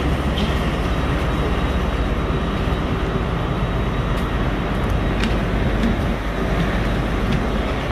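Steady rumble and hiss of a passenger train standing with its doors open.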